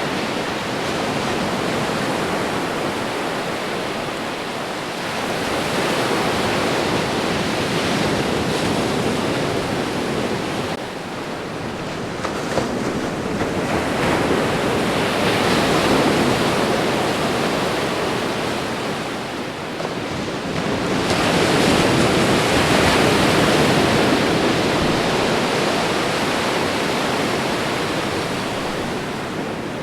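Ocean waves washing onto a shore, a continuous rushing that swells and eases in slow surges every several seconds.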